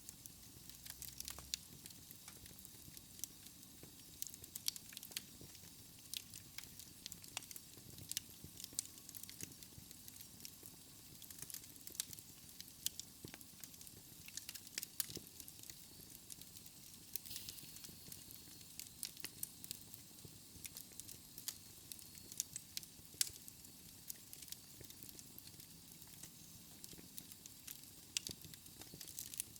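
Wood fire burning in a fireplace: irregular sharp crackles and pops over a faint steady hiss.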